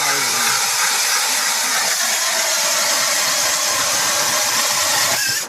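Power ice auger boring through lake ice, running at a steady whirr that cuts off suddenly about five seconds in.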